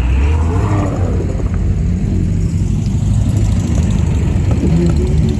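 Car engine running with a deep, steady low note as a car drives in.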